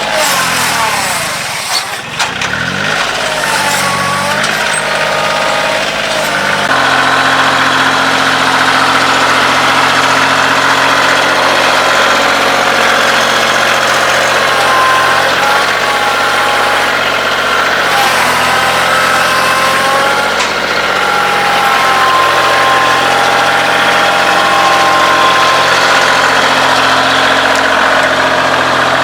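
Kioti CK2610 compact tractor's three-cylinder diesel engine running. Its pitch drops over the first couple of seconds, then about seven seconds in it steps up to a steady, higher speed and holds there, with a wavering whine above the engine note.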